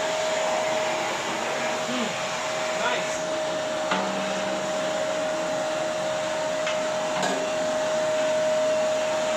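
SAYONA bagless 1200-watt vacuum cleaner running steadily: a constant motor whine over rushing airflow, with a couple of brief clicks.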